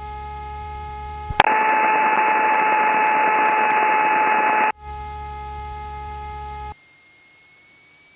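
Aircraft radio audio with no voice on it: a steady whistling tone over hiss. With a click about a second and a half in, it jumps much louder and stays loud for about three seconds. It then drops back, and falls to a faint hiss near the end.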